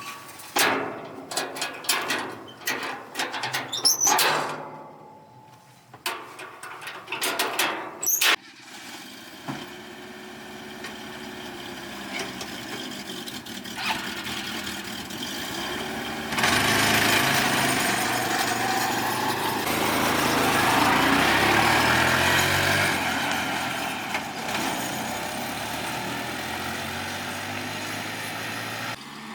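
A run of clicks and knocks, then a vehicle engine starts and runs, getting louder about halfway through and easing off again before it cuts out near the end.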